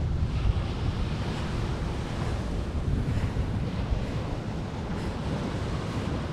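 Ocean surf washing on the beach, with wind buffeting the microphone in a steady, low rumbling rush.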